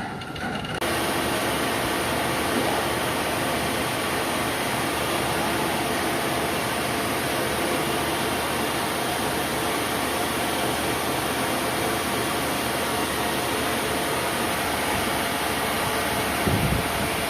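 Steady machinery running, a constant even noise with a faint hum, starting abruptly about a second in.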